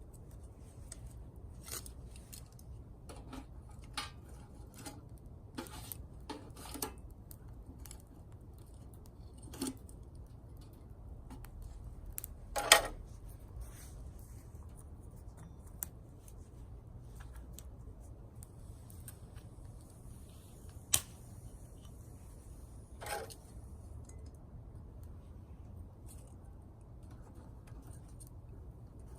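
Small dry twigs snapping and crackling at a small twig fire, in scattered sharp clicks. The loudest snap comes about halfway through and two more stand out later.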